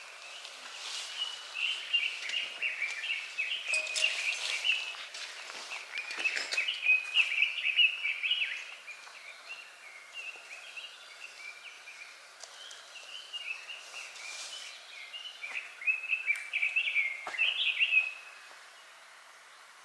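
A songbird singing quick, twittering warbled phrases, in two long bouts with a pause between them, against quiet outdoor ambience.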